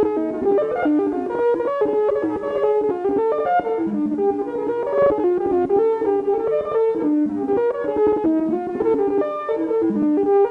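Korg Volca Modular semi-modular synthesizer playing a fast sequence of short plucked notes that hop up and down in pitch, several notes a second, with no break.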